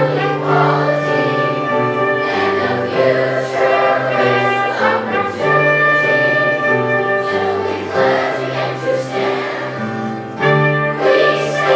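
Children's choir singing with musical accompaniment, steady low notes sounding under the voices.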